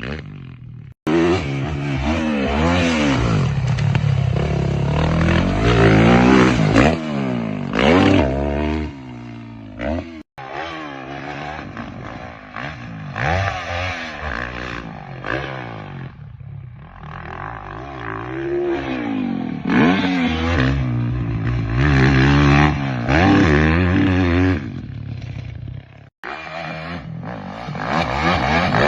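Motocross bike engine revving hard as it is ridden, its pitch climbing and dropping over and over with throttle and gear changes. The sound cuts out abruptly and resumes three times.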